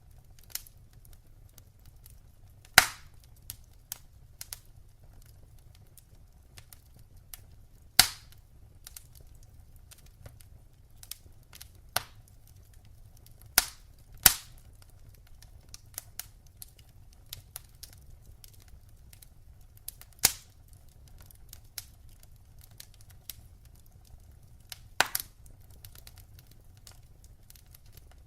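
Wood fire crackling in a fireplace: irregular sharp pops, a handful of them loud and a few seconds apart, over many fainter ticks and a low steady rumble.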